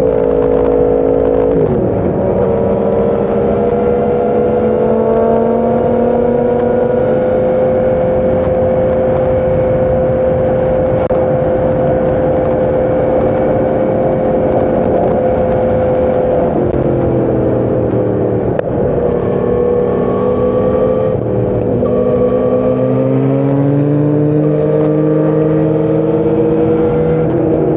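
Sport motorcycle engine running hard at steady high revs, easing off about sixteen seconds in, then revving up again.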